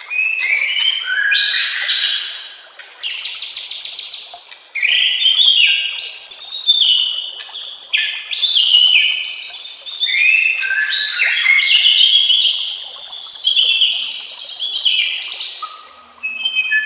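White-rumped shama (murai batu) singing a fast, varied song of whistles, trills and chirps sliding up and down, in loud bursts broken by brief pauses.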